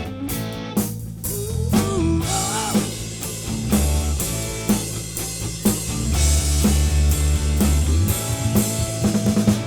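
Live soul band vamping: a drum kit keeping a steady beat under a bass line, with an electric lead guitar playing a short spotlight lick of bent notes about two seconds in.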